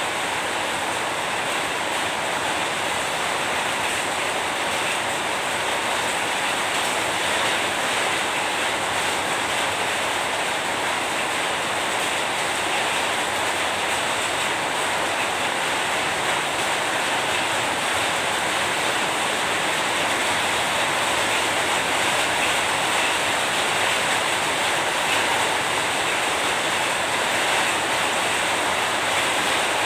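Steady rain, an even hiss that holds without a break or change.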